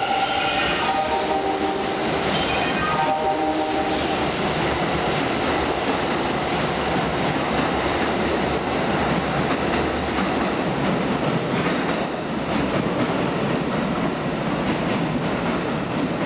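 Kintetsu 80000 series 'Hinotori' electric train running through the station without stopping. A whine of several steady motor tones fades out over the first few seconds, then steady wheel rumble and rail clatter continue.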